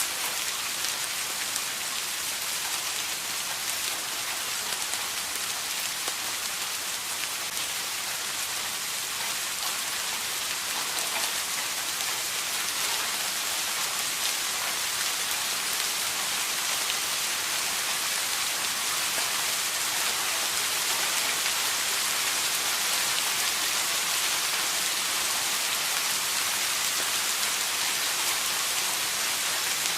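Steady rain falling, a continuous hiss of drops with fine scattered patter.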